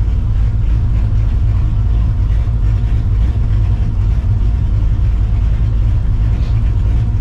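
Straight-piped 1999 Mustang GT's supercharged, big-cam 5.4-litre V8 running steadily at low revs with a deep exhaust note and no revving.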